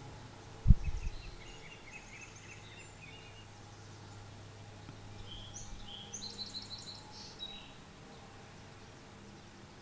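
Small bird chirping in two quick runs of high notes, the second higher and louder, over a faint steady low hum. A single loud low thump sounds about a second in.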